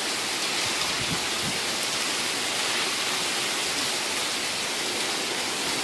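Steady heavy rain falling during a thunderstorm, an even, unbroken hiss.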